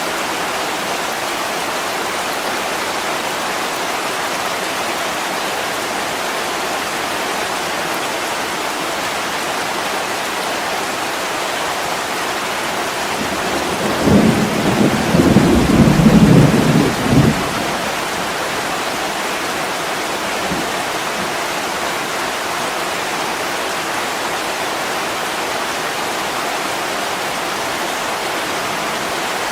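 Heavy rain falling steadily on a window, with a low rumble of thunder about halfway through that lasts some three seconds and is the loudest sound.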